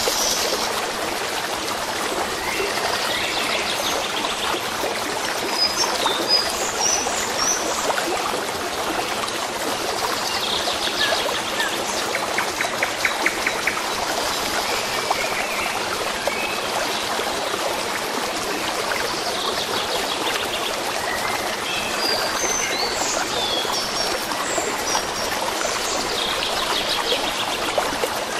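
Flowing stream babbling steadily, with small birds chirping and trilling high above it every few seconds.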